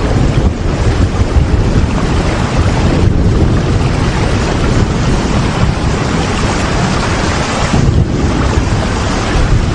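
Heavy steady rain, a dense even hiss with a deep low rumble underneath, swelling slightly every few seconds.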